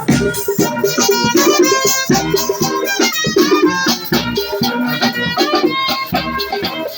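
Brass band playing live: horns carrying a melody over drums and shakers with a steady beat.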